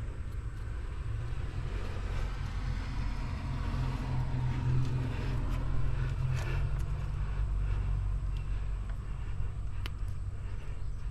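A vehicle going by, its low engine and tyre noise swelling to a peak about halfway through and then fading, with a few faint clicks over it.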